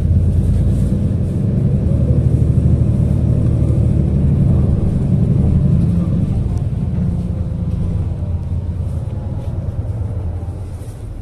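City bus engine and drivetrain running with a loud low rumble, heard from inside the bus, strongest over the first half and easing off gradually towards the end.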